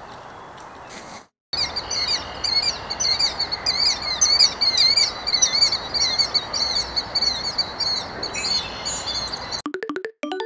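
A songbird singing a rapid, busy run of short high chirping notes, repeated several times a second, over steady outdoor background noise. Plucked music starts near the end.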